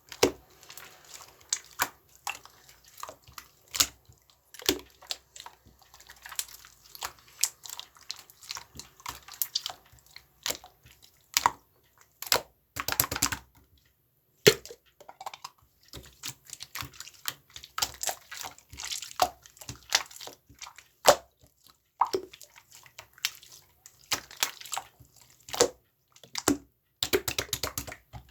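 Slime being squished and pressed by hand, making irregular sticky clicks and pops, with a few quick crackling runs.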